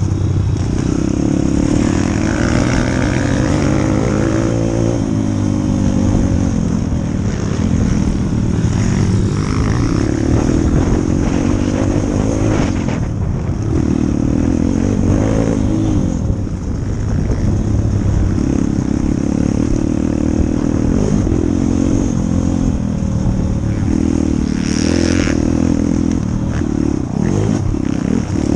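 A 140cc single-cylinder four-stroke pit bike engine being ridden hard. The revs rise and fall every few seconds as the throttle opens and closes through the gears.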